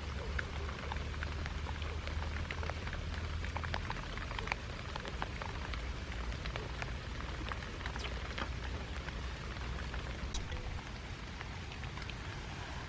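Heavy rain falling steadily, with many sharp individual drop hits over a constant hiss. A low rumble underneath drops away about four seconds in.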